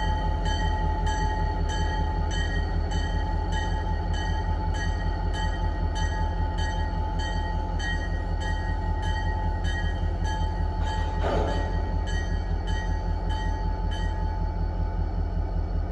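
Diesel locomotive engine running with a steady low rumble, its bell ringing about twice a second until near the end.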